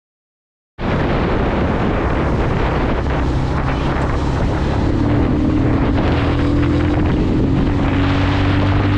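Bajaj Pulsar 220 single-cylinder motorcycle engine running while riding, with heavy wind noise on the microphone, cutting in abruptly about a second in. The engine's pitch climbs slowly over the second half.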